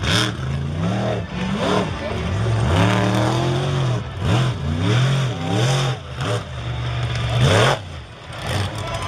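Monster truck engine revving hard, its pitch rising and falling again and again through a freestyle run.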